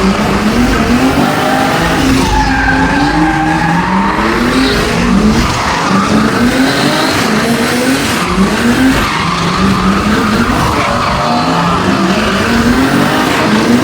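Drift car with a swapped turbocharged 2JZ-GTE inline-six, the engine revving up and falling back again and again through a drift run, with tyres skidding under it.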